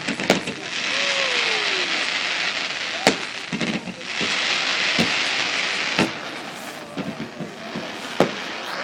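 Display fireworks going off: about five sharp bangs a second or more apart, over a steady hiss.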